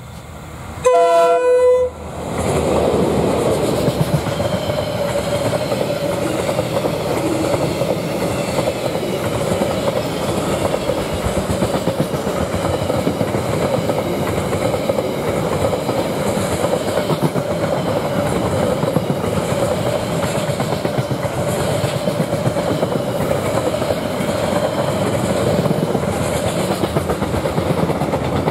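A train horn sounds one short chord-like blast about a second in, then a train runs past close by: a loud, steady rumble of wagons on the rails with a steady whine.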